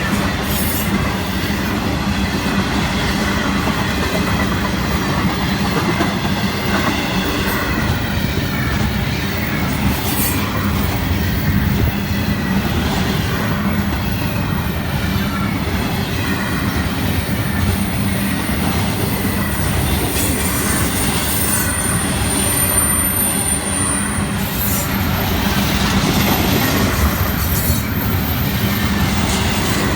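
An intermodal freight train rolling past with steady, loud wheel-on-rail noise and clickety-clack from the cars. A thin, high-pitched wheel squeal comes in about two-thirds of the way through and lasts a few seconds.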